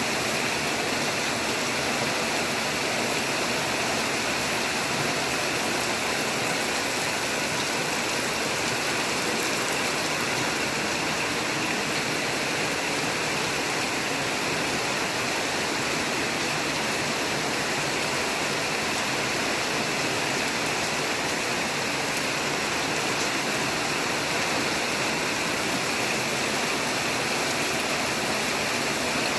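Rain falling steadily: an even, unbroken rush of water with no let-up.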